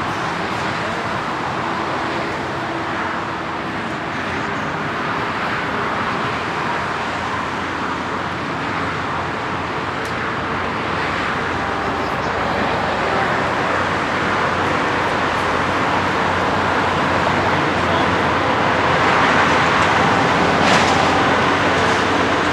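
Airbus A330-900 jet airliner's engines running, a steady roar that slowly grows louder, over a constant traffic-like rush.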